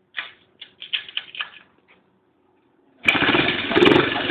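Dirt bike engine starting about three seconds in, then running loudly and unevenly. Before it, a few short, faint knocks or noises.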